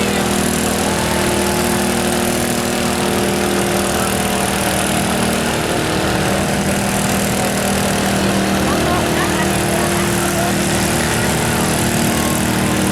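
Riding lawn mower engine running steadily at a mower tractor pull.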